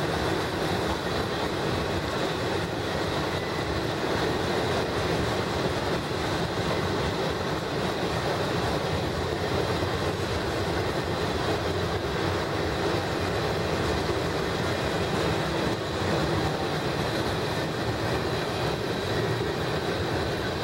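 Freight train boxcars rolling past: a steady rumble and rattle of steel wheels on the rails.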